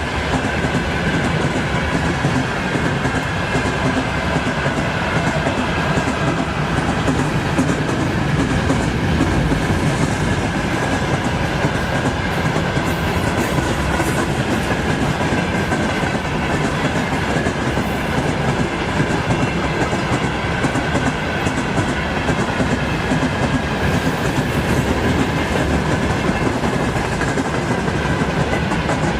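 Train rolling steadily past, its wheels clacking over the rail joints.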